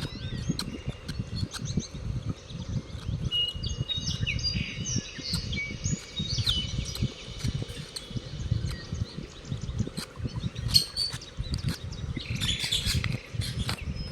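Lovebirds chirping and chattering: many short, sharp high chirps with held whistled notes, over a low rumble.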